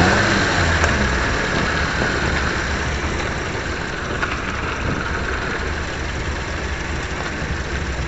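Suzuki Swift cup race car engine idling with a steady low rumble.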